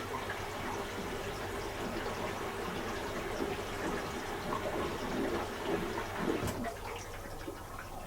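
Bosch Serie 4 SMS46MW05G dishwasher running a wash: water sprays and splashes against the inside of the tub over a steady hum from the circulation pump. A knock about six and a half seconds in, after which the splashing hiss is lower.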